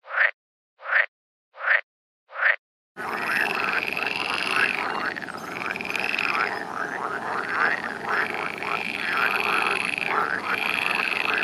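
Frogs croaking. First comes a series of four separate, evenly spaced calls, about one every three-quarters of a second. Then, from about three seconds in, a dense chorus of many frogs calling over each other, which cuts off near the end.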